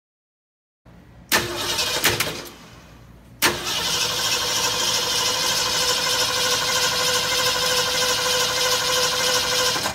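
A 1973 Ford Mustang's carbureted V8 being started: a first short try about a second in, then a second start a couple of seconds later, after which the engine runs steadily with a constant whine.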